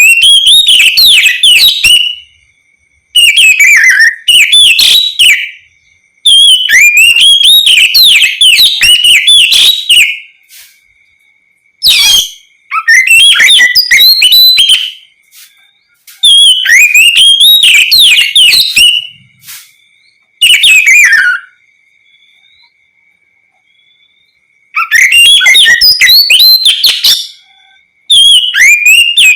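Oriental magpie-robin (kacer) singing loudly in repeated phrases of rapid, varied, sliding whistled notes, each phrase two to four seconds long with short pauses between. A faint steady high tone is heard in the pauses.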